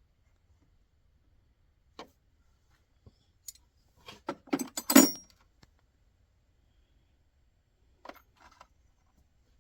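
Metal hand tools and parts clinking together: a single click, then a quick cluster of clinks about four to five seconds in with a brief metallic ring, and a few lighter clicks near the end.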